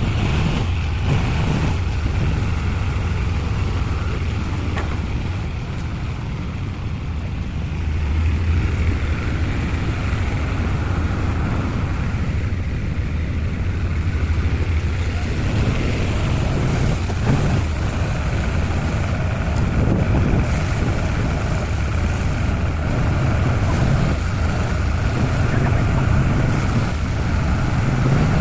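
An engine running steadily, with a low, even drone that grows a little louder about eight seconds in.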